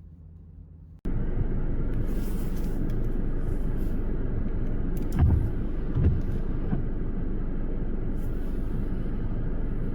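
A steady outdoor rumble that cuts in abruptly about a second in, with two louder low thumps in the middle.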